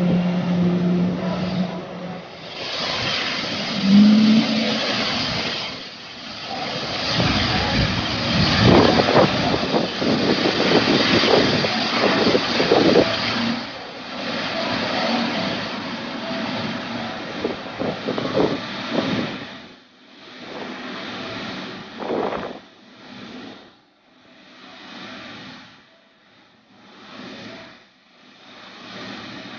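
Jet aircraft engine noise, a broad rumbling roar that builds, peaks and fades away over about twenty seconds, then comes and goes in short swells. A steady engine hum is heard in the first couple of seconds.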